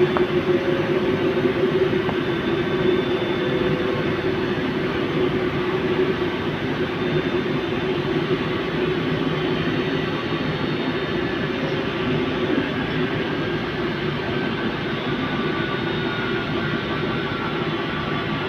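Fagor washing machine spinning in its spin cycle, its inverter-driven motor and drum making a steady hum with a faint whine above it. The noise eases slowly over the stretch as the spin winds down.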